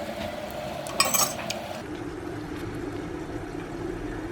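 A few sharp clinks of a utensil against a dish about a second in, over a steady background hum whose tone changes abruptly near the two-second mark.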